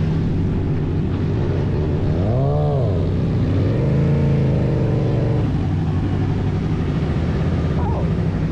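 An engine idling steadily, revved up and back down once about two and a half seconds in, then a slower, smaller rise and fall of pitch shortly after.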